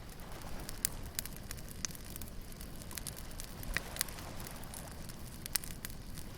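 Wood bonfire crackling, with irregular sharp pops, several of them loud, over a steady low rumble of surf.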